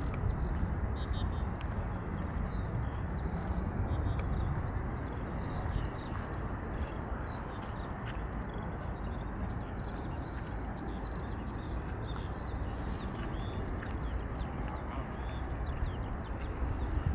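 Small birds chirping and singing steadily over a low, even outdoor rumble.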